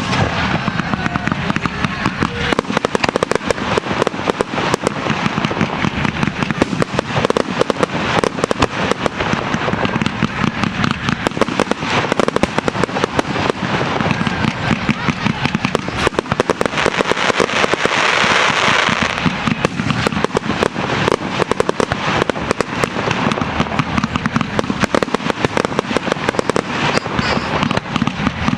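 A fireworks display: shells bursting and crackling in fast, unbroken succession, with a hissing rush about two-thirds of the way through.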